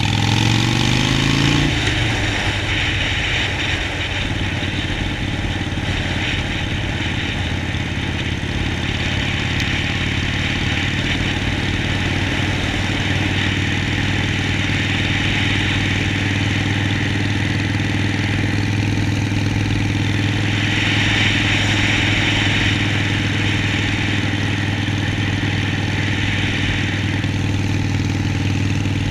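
Harley-Davidson Sportster Forty-Eight's 1200 cc air-cooled V-twin running. Its revs rise briefly at the start, then it holds a steady note, with a constant hiss over it.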